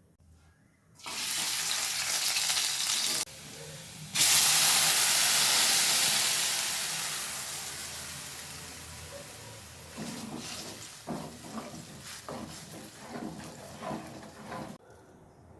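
Hot oil sizzling loudly in a pan as food goes in: it starts about a second in, comes again louder at about four seconds, then dies down slowly into light crackling and spitting before cutting off suddenly near the end.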